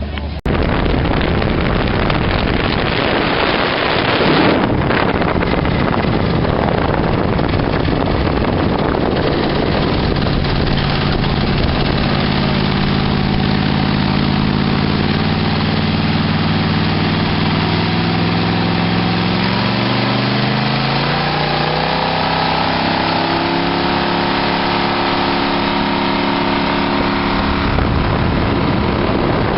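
Motorboat engine running over a steady rush of wind and water; its tone grows clearer partway through and rises in pitch about two-thirds of the way in as the boat speeds up, then holds steady.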